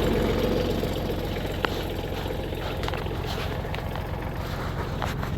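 Kubota B7200 compact tractor's three-cylinder diesel engine running steadily with an even low pulse, and a single sharp click about two seconds in.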